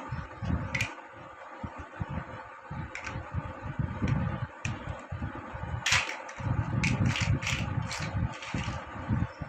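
Plastic building blocks clicking and rattling as they are handled and fitted together: scattered sharp clicks, coming closer together in the second half, over a steady fan-like hum.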